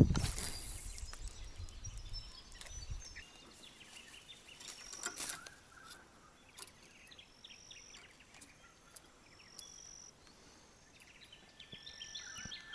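Outdoor ambience by a river: birds calling with short, high, steady notes every second or two over faint background noise. A sharp knock comes right at the start, with a low rumble for the first few seconds.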